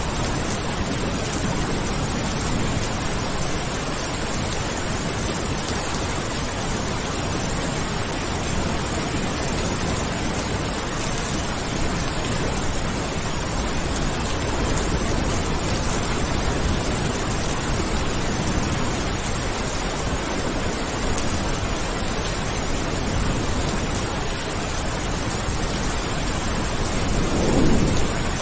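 Steady, dense rain hiss, with a short low rumble of thunder swelling near the end.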